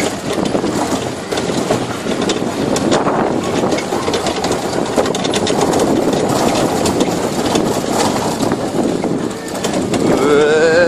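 Tractor-towed barrel train in motion: the barrel carts rattle and clatter continuously over the ground, with the tractor's engine running beneath.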